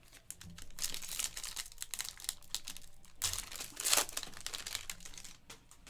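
Crinkling and tearing of a trading-card pack's foil wrapper as it is ripped open and handled, in two louder bursts about a second and three seconds in, with light clicks of cards being handled between them.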